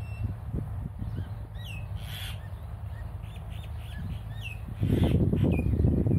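Small birds chirping, a series of short, falling notes, over a low wind rumble on the microphone that grows louder about five seconds in.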